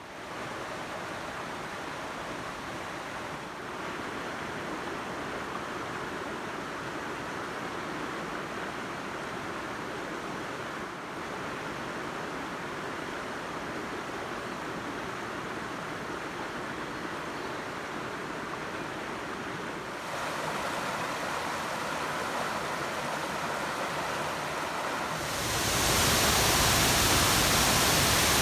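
Steady rushing of waterfall water. It gets louder in two steps, about twenty seconds in and again about twenty-five seconds in, and is much fuller and louder near the end.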